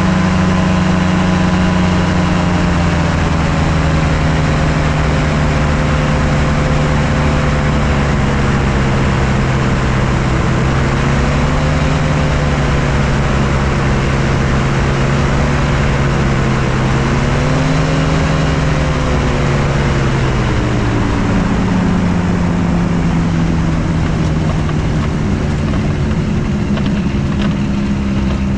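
Kolb Firefly ultralight's engine and propeller in flight, a steady loud drone. Its pitch sags slowly and rises and falls briefly twice, about a third and two thirds of the way through.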